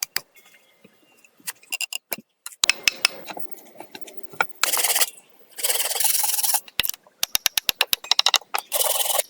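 Scraping or rasping strokes, three of them, each half a second to a second long, mixed with scattered knocks and a run of quick clicks near the end.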